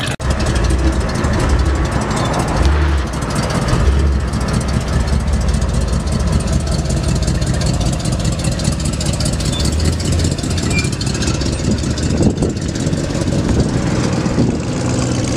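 A customized early-1950s Buick's engine running with a low, steady rumble as the car rolls slowly past, swelling briefly a few times.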